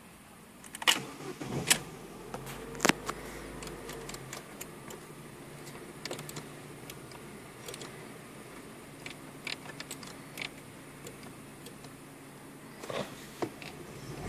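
Opel Astra engine started from inside the cabin: a few sharp clicks of the key and ignition early on, then the engine catches and settles into a steady idle at about 1000 rpm, with a few light clicks over it.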